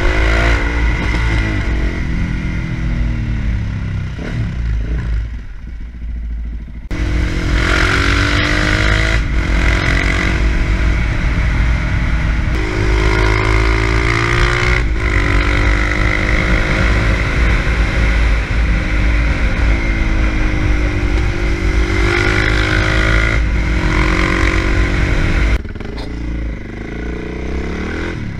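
Suzuki DR-Z400 single-cylinder four-stroke thumper running under way, its revs climbing and dropping again and again as it pulls through the gears, over a steady wind rumble on the microphone. It eases off about four seconds in, picks up hard about seven seconds in, and eases off again near the end.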